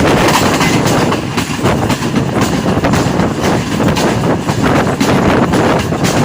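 Rehman Baba Express passenger train running along the track, heard from on board: a steady loud rumble and rattle of wheels on rails with a scatter of short clicks.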